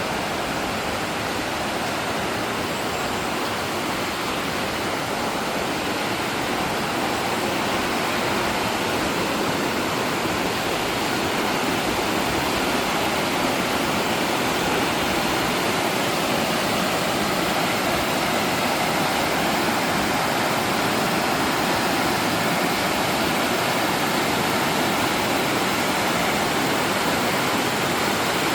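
Mountain valley stream rushing steadily, an even wash of flowing water that grows a little louder partway through.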